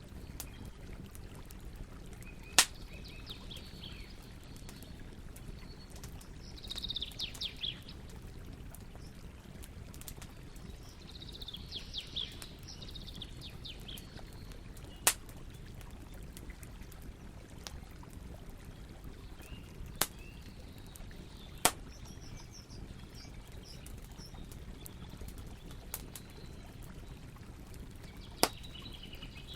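Campfire burning with a steady low rustle and a sharp pop or crackle every few seconds. Small birds chirp in short bursts over it, several times.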